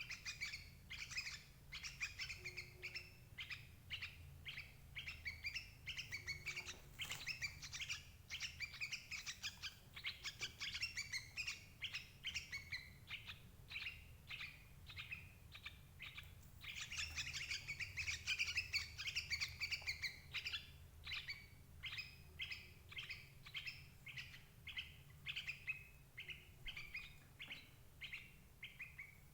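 Yellow-vented bulbul (trucukan) calls: fast, continuous chattering chirps, played as a lure call to draw in adult birds for trapping. A faint low hum runs underneath.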